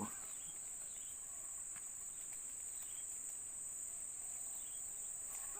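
Steady, high-pitched drone of an insect chorus, running unbroken as one even hiss-like trill.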